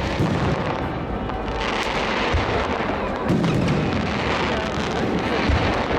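Aerial firework shells bursting, with several low booms a second or two apart over a dense, continuous din.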